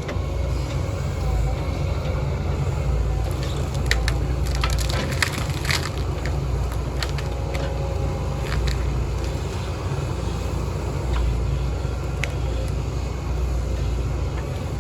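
Heavy diesel machinery running steadily, with a scatter of sharp cracks and snaps of wood splintering, most of them about four to six seconds in.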